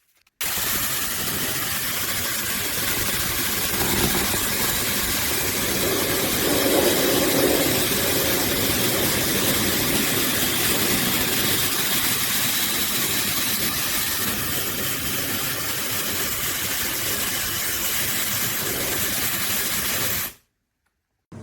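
High-speed hair dryer running, a steady loud rush of air that starts abruptly and cuts off suddenly near the end.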